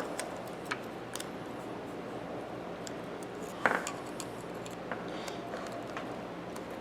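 Faint, scattered metal clicks and scrapes of a hand tool working at the dust cover of a Thorsen 77J ratchet, with one sharper clink at about three and a half seconds.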